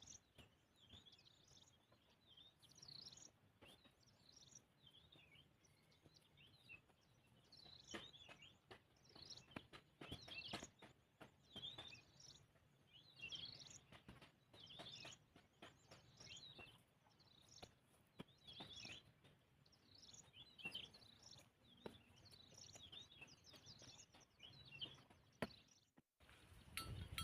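Small birds chirping in short, repeated phrases every second or two, with a few faint clicks; the sound cuts out briefly near the end.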